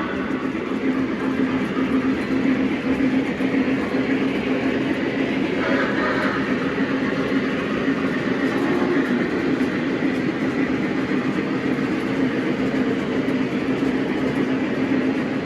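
Model train running steadily on the layout's track: the wheels rumble on the rails over a steady hum from the locomotive's motor.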